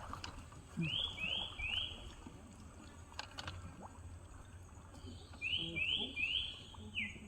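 A bird calling: a run of three short rising whistled notes about a second in, then four more near the end, closed by one falling note. A few faint knocks fall between the runs.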